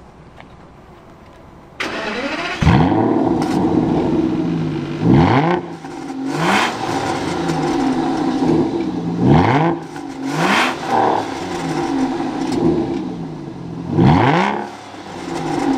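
A supercar engine revved in sharp blips, about six times, with the engine running between them. The engine sound comes in abruptly about two seconds in.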